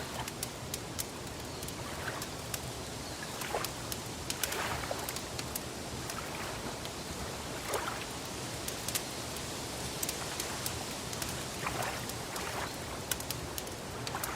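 Wood fire crackling, with frequent irregular sharp pops and snaps, over a steady wash of lake water lapping that swells softly every few seconds.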